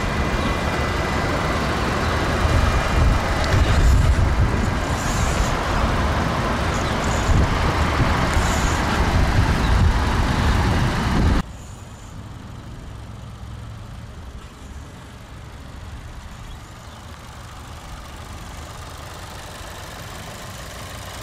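Loud, steady rumbling noise of a car outdoors for about eleven seconds, which cuts off abruptly. It is followed by a quieter, steady low hum of the Skoda Octavia's 1.4-litre turbocharged four-cylinder engine idling.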